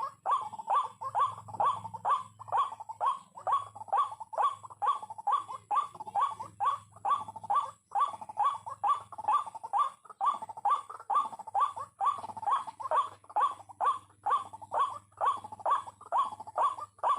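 White-breasted waterhen (ruak-ruak) calling, a short rising croak repeated monotonously about two to three times a second without a break.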